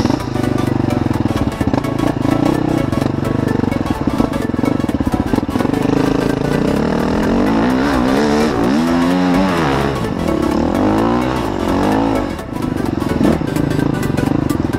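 Dirt bike engine running under load, then revving up and down several times in quick succession about halfway through before settling back to a steadier note.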